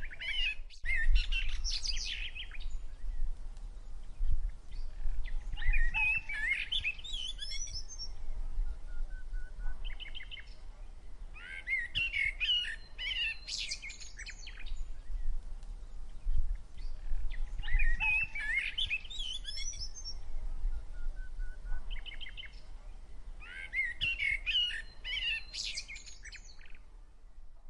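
A songbird singing complex, warbled phrases of two to three seconds, repeated about every six seconds, with short rapid chattering notes and a brief whistle between phrases. A steady low rumble runs underneath.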